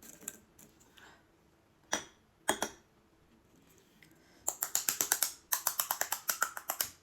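Crisp panipuri shells crackling and crunching: two single sharp cracks, then a fast run of crisp clicks lasting about two and a half seconds.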